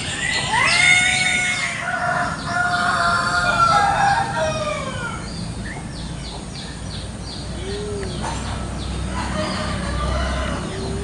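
Village rooster crowing: long drawn-out calls starting about half a second in and lasting for several seconds, with fainter calls near the end.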